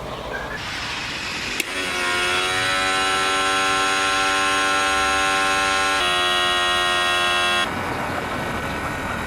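A click, then a motor-driven machine starts up with a rising hum, runs steadily and shifts pitch about six seconds in, then cuts off suddenly about a second and a half later.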